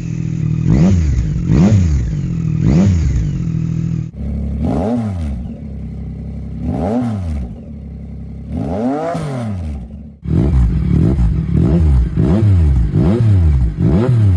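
Yamaha MT-09's three-cylinder engine revved through an aftermarket exhaust in repeated throttle blips, each a quick rise and fall in pitch. Rapid blips come for about four seconds, then three slower, separate revs about two seconds apart, then rapid blips again from about ten seconds in.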